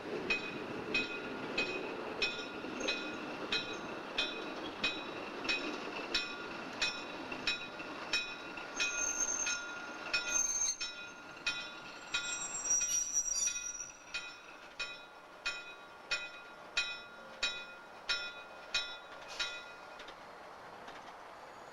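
Train on the move with a locomotive bell ringing steadily, about two strikes a second, until it stops near the end. Wheels squeal on the rails for a few seconds in the middle, over a low rumble that fades soon after.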